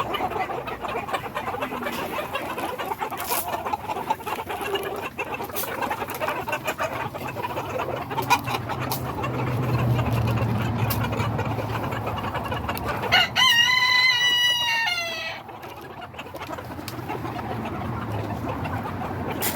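Backyard chickens clucking throughout, with a rooster crowing once, loudly, about thirteen seconds in; the crow lasts about two seconds and falls slightly in pitch at the end.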